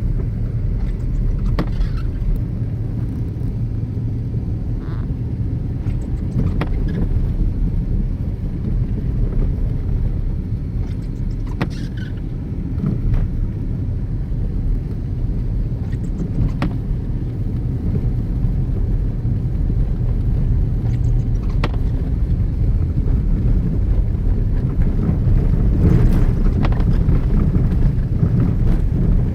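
A car driving along the road, its steady low road and engine rumble running throughout, with a faint click about every five seconds.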